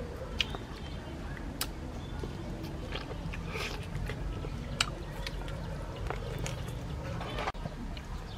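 A person eating grilled chicken by hand, chewing and tearing the meat, with scattered sharp mouth clicks and smacks over a steady low rumble.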